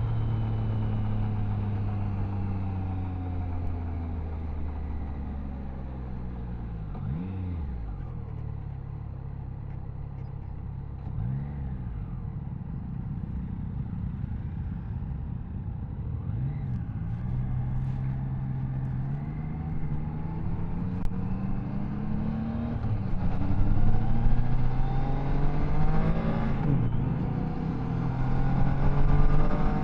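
Triumph Tiger Sport 660's inline three-cylinder engine heard from the rider's seat. The revs drop off throttle at first, with three short rev blips in the middle stretch, then the engine pulls up steadily and accelerates, getting louder through the last third.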